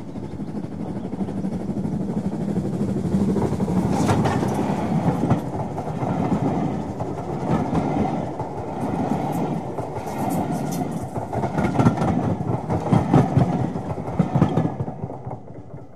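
A train running past close by, its wheels clicking and clattering over the rail joints above a steady rumble. The sound dies away near the end.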